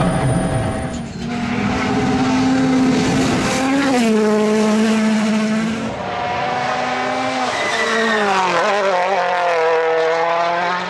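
Rally car engine running hard at high revs. The pitch dips briefly about four seconds in, then falls and climbs back between about eight and nine seconds in.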